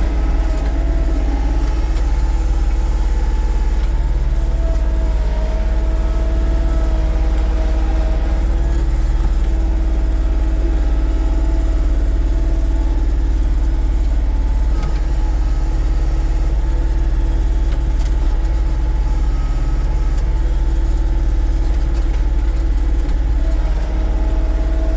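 Kioti CK3520SEH compact tractor's diesel engine running steadily, with a heavy low rumble.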